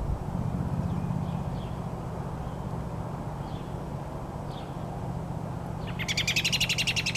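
Robin giving a few faint single chirps, then a quick run of rapid chirps lasting about a second near the end as it flies away, over a steady low rumble.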